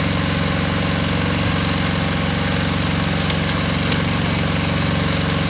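Honda GCP160 single-cylinder overhead-cam lawn mower engine running steadily at a fast even beat, its crankcase filled with ketchup instead of oil; the operator hears it as struggling. A few faint ticks sound a little past halfway through.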